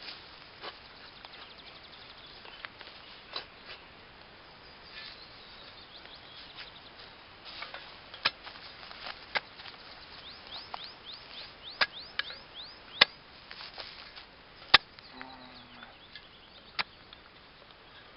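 A spade digging a pit in forest soil: irregular sharp strikes and scrapes of the blade, most of them in the second half and the loudest about two-thirds of the way in. A bird sings a run of short falling notes in the background near the middle.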